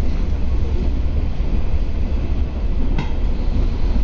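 Diesel local train running along the line, heard from inside the passenger carriage: a steady heavy rumble of wheels and engine, with a single sharp click about three seconds in.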